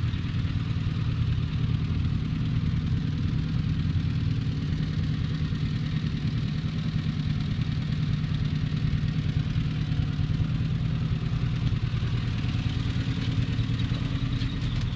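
1989 Isuzu Trooper RS engine idling steadily, warmed up after about fifteen minutes of running with its repaired radiator keeping the temperature normal.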